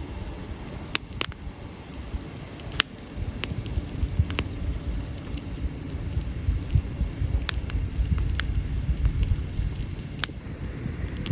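Wood campfire burning: a low, uneven rumble of flames with scattered sharp crackles and pops, about one every second or so.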